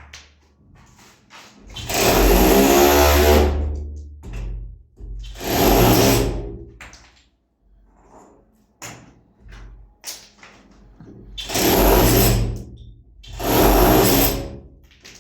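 Handheld electric power tool switched on in four short bursts, its motor speeding up and running down each time, with quieter gaps between.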